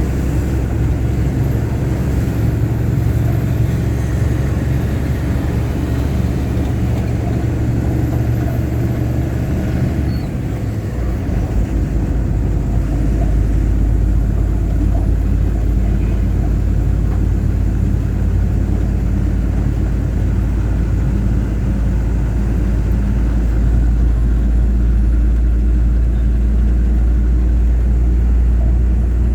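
Loaded truck's engine running steadily under way, a loud continuous low drone with road noise. About ten seconds in the deep hum changes and then grows slightly louder.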